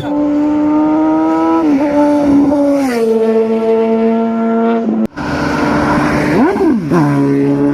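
Superbike engines running at held revs, with a steady high note that steps down once, then a short cut. After the cut, a quick rev blip rises and falls and the engine settles to a lower steady note.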